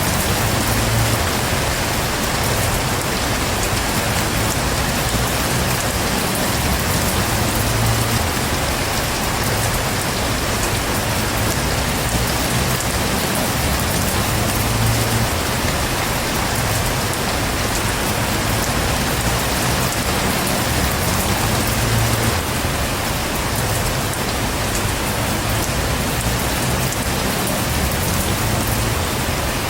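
Steady heavy rain, pouring on a surface with a low rumble underneath.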